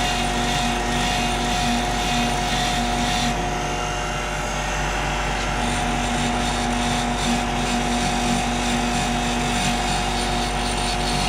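Power tool running steadily while an exhaust valve is ground: a constant motor whine over a rough grinding hiss.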